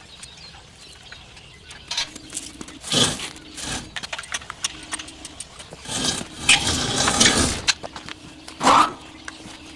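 Chicken tractor pen being shifted across a concrete floor: irregular scraping, creaking and knocking in several uneven surges.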